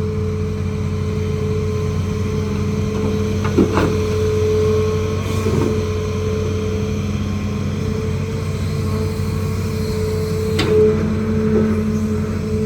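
Hitachi ZAXIS200 excavator's diesel engine running steadily with a held whine, and two sharp knocks, about three and a half and ten and a half seconds in.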